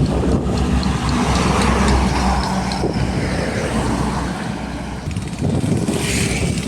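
Heavy diesel trucks passing close by on a road, with engine rumble and tyre noise. The loudest stretch is the first two and a half seconds, then it eases before another vehicle comes up near the end.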